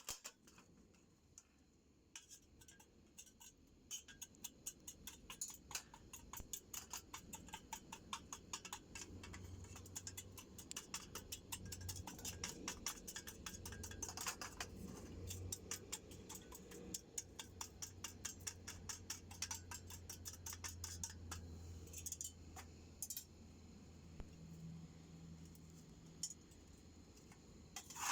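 Wood fire crackling in a small homemade wood stove: a dense, irregular run of small pops and ticks that grows busier in the middle, over a faint low hum.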